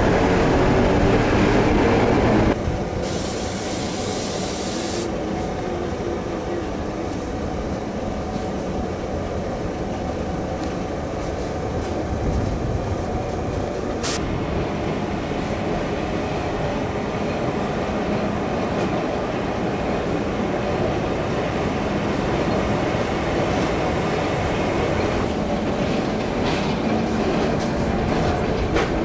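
Narrow-gauge electric train running, heard from aboard: a steady rumble of wheels and motors. It is louder for the first couple of seconds, then drops to a lower steady level, with a single sharp click about halfway through.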